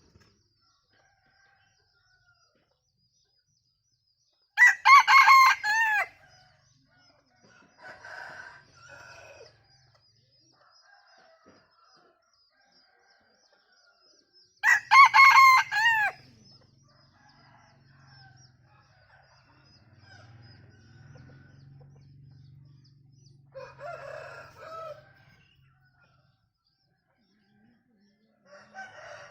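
Bantam rooster crowing twice, loud crows about 5 and 15 seconds in, each lasting about a second and a half and broken into short pieces like laughter. Fainter crows or clucks come in between and near the end.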